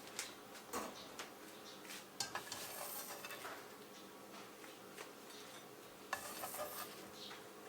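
Light clicks, taps and short scraping sounds of small objects being handled, over a faint steady hum.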